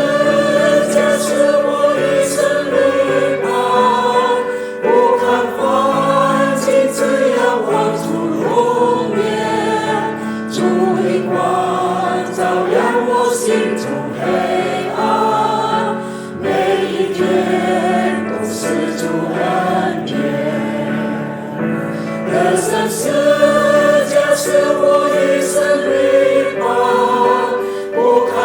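Church choir singing a Mandarin Christian hymn, sustained sung lines in several parts over a steady low accompaniment.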